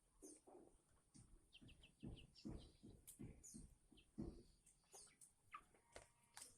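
Faint chirping of caged pet songbirds: short high calls and a quick run of notes, with scattered soft knocks and rustling.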